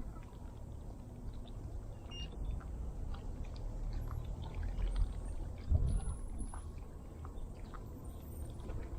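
Low rumbling noise with many small scattered ticks and taps from a fishing kayak on the water, with one louder low bump a little before the middle.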